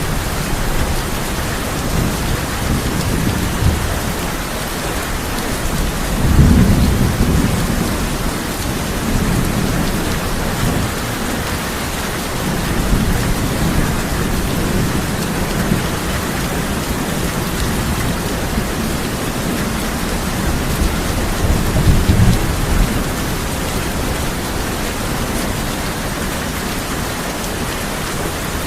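Heavy rain drumming steadily on a tin roof, with low rumbles of thunder rising and fading; the biggest rolls come about six seconds in and again about two thirds of the way through.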